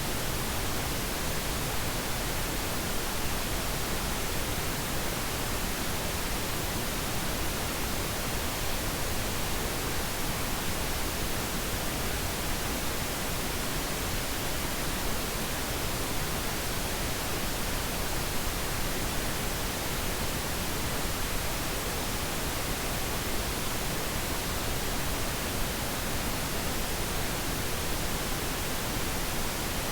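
Steady pink noise: an even, unchanging hiss spread across all pitches, used as a sleep aid for babies.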